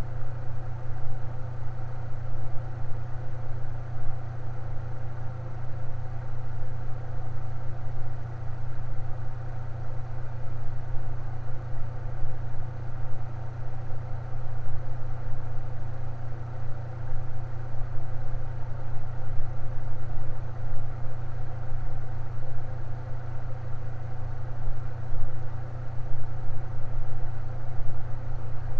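Electric fan running steadily: a constant low hum with an even rush of air over it.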